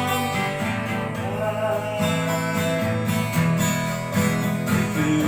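Acoustic guitar strumming chords to accompany a song, with the singer's voice drawing out a long sung note between words.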